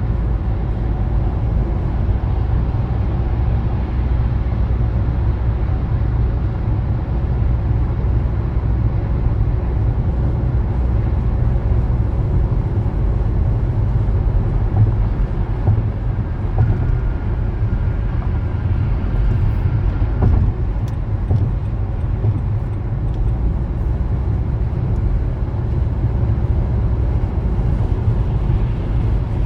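Steady road and engine noise of a car on the move, heard from inside the car: a constant low rumble with tyre hiss above it. A few faint clicks come about twenty seconds in.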